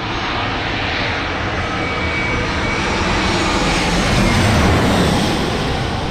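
Jet aircraft engines running as a plane passes close by, swelling to a peak about four to five seconds in with the pitch gliding downward, then starting to fade.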